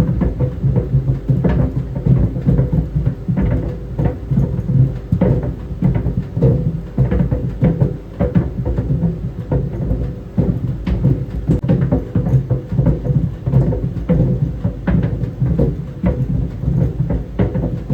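Tennis balls tumbling in a running clothes dryer, thudding irregularly against the drum several times a second over the dryer's steady hum and rumble.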